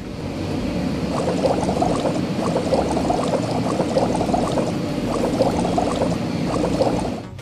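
Cartoon sound effect of bubbling, gurgling liquid: a dense stream of quick bubbly blips that builds over the first second and cuts off suddenly near the end.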